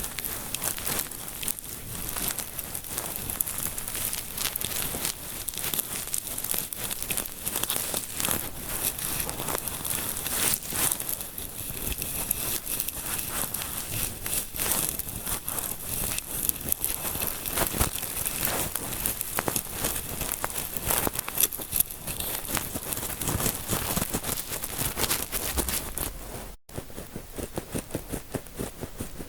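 Close-miked, continuous crinkling and scratching of fingers massaging and rubbing at the microphone, as in a simulated scalp massage, with a dense run of small crackles; the sound cuts out for an instant near the end.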